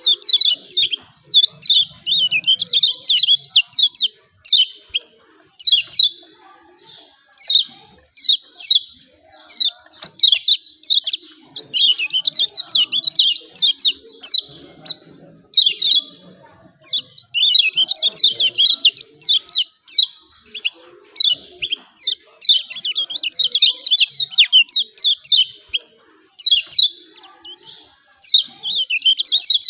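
Kecial kuning, the Lombok white-eye, giving its excited 'ciak ciak' chatter: loud, rapid, high calls in bursts of a second or two with short pauses between.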